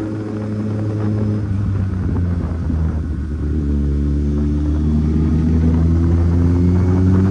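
Kawasaki Z800 inline-four engine running under way. Its pitch drops briefly about halfway through, then climbs slowly as the revs build.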